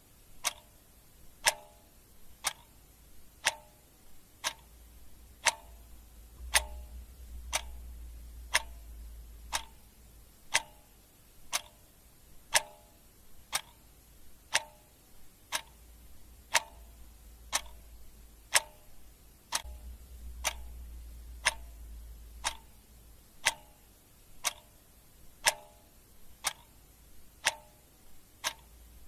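Clock ticking steadily at about one tick a second, with a faint low hum underneath that swells now and then.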